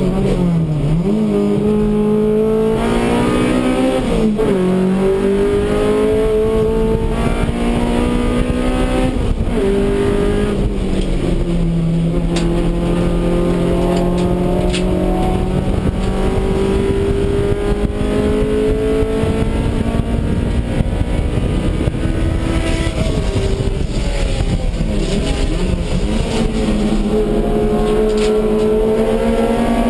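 Honda Civic EG race car's B18C5 1.8-litre DOHC VTEC four-cylinder engine running hard under racing load, heard from inside the stripped cabin. Its pitch climbs slowly through long pulls, and a few times it dips sharply and climbs back.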